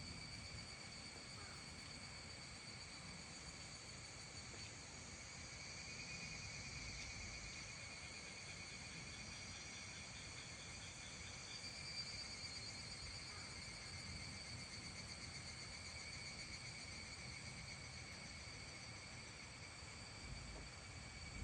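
Evening chorus of insects trilling steadily in several high pitches, with extra pulsing trills joining in for a few seconds in the middle, over a faint low background rumble.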